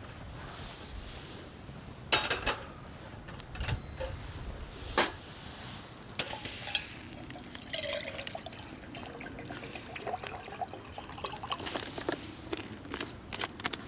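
Liquid pouring and dripping, with several sharp knocks and small clinks of cookware.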